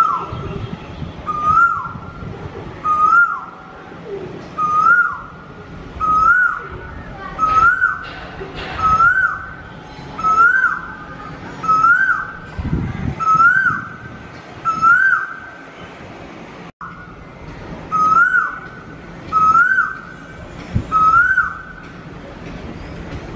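A bird calling over and over: a short whistled note that rises and then drops away, repeated very evenly about every second and a half, stopping a little before the end.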